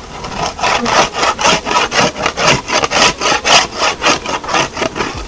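Rapid, even back-and-forth scraping, about five strokes a second, starting about half a second in and stopping just before the end.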